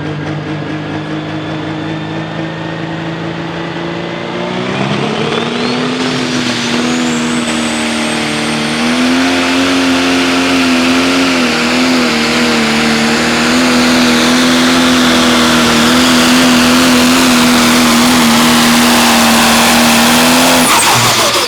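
Turbocharged diesel pro stock pulling tractor making a pull. The engine runs steadily at lower revs, then is opened up about four seconds in, its turbo whine climbing steeply as it spools. It holds high revs under load, slightly wavering and growing louder, until the throttle is cut near the end and the turbo whine falls away.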